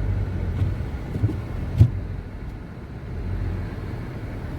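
Pontiac Vibe's engine running as the car pushes through deep snow, a steady low hum, with a sharp thump a little under two seconds in.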